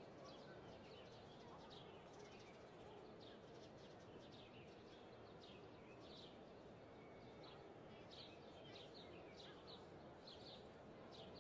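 Small birds chirping faintly: a steady run of short, quick downward chirps, several a second, over a soft, even background hiss.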